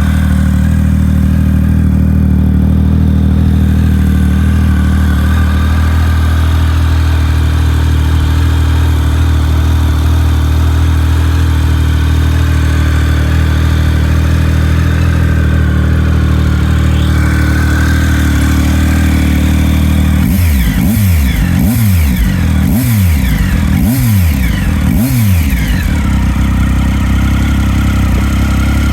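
Triumph Speed Triple 1050's three-cylinder engine idling through Arrow aftermarket exhausts, then revved five times in quick succession about two-thirds of the way through before settling back to idle.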